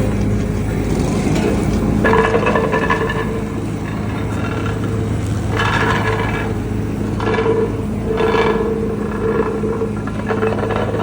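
Heavy road-paving machinery running with a steady low engine hum. About two seconds in, a higher mechanical tone joins it, and bouts of scraping recur several times.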